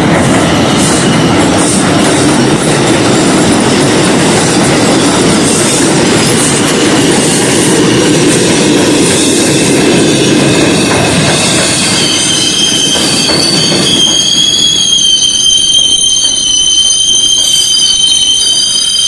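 R142 subway train moving through a tunnel station with a loud, steady running rumble. About twelve seconds in, a steady high-pitched wheel squeal sets in, and the rumble dies away a couple of seconds later while the squeal holds on.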